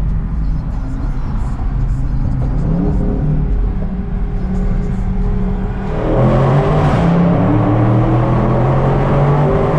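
Dodge Charger Scat Pack's 6.4-litre 392 Hemi V8 running while driving, its note shifting in pitch, then getting louder and revving higher about six seconds in as the car accelerates.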